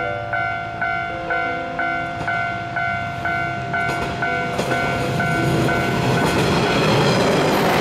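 Level-crossing warning bell ringing about twice a second while a single diesel railcar approaches; the railcar's engine and wheel noise builds over the last few seconds and becomes the loudest sound, swamping the bell.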